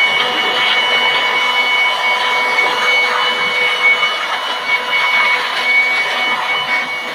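Electric motor of car-wash equipment running steadily, a high whine over a rushing hiss.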